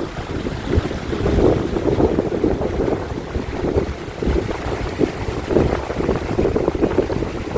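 Water rushing in a mountain valley stream, with wind buffeting the microphone in uneven gusts.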